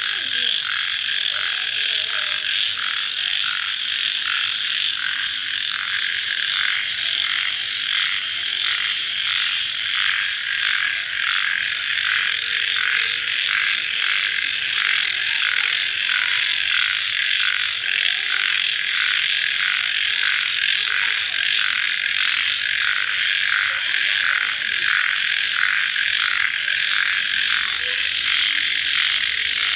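Dense night chorus of calling crickets and frogs: a steady, shrill trilling mass that pulses evenly, about two to three beats a second.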